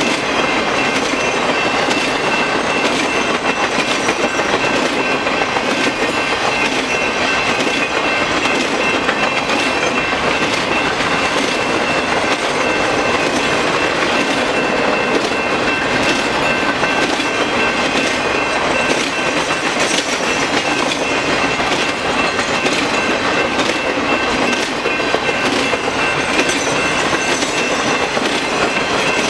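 Norfolk Southern Triple Crown RoadRailer train, a string of highway trailers riding on rail bogies, rolling steadily past at a grade crossing: a constant loud clatter of rail wheels over the track, with a few steady high tones running over it.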